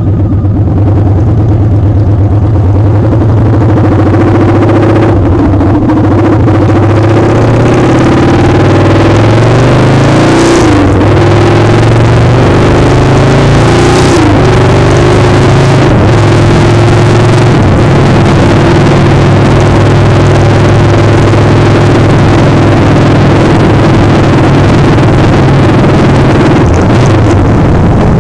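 Motorcycle engine running while riding, loud and steady, with heavy wind noise on the microphone. The engine's pitch wavers a little around the middle.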